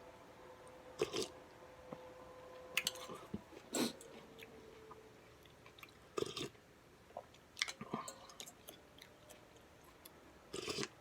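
A person chewing and eating pho (noodles and meat) close to the microphone, in short, scattered mouthfuls a second or two apart. A faint steady hum runs underneath.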